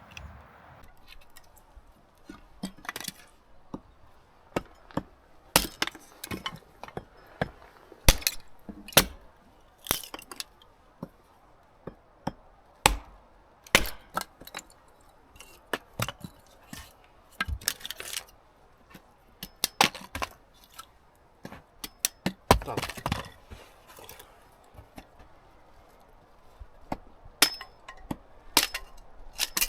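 A series of irregular sharp knocks and clinks, about one or two a second, some in quick clusters.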